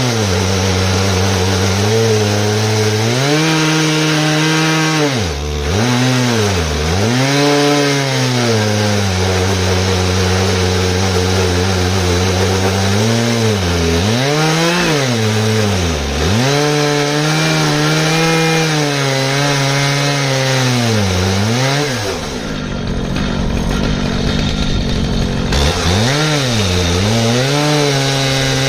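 Stihl MS 881 two-stroke chainsaw running hard through an ash log on an Alaskan chainsaw mill. The engine note keeps dipping and recovering, several times in quick pairs, as the saw bogs under load in the cut. For a few seconds near the end the steady note gives way to a rougher rumble before it picks up again.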